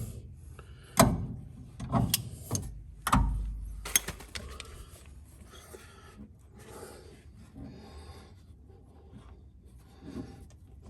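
Hand work on a fuel-tank fitting: several sharp knocks and clunks of metal parts and tools in the first four seconds, one with a short low rumble after it, then quieter rubbing and handling as the fitting is lined up.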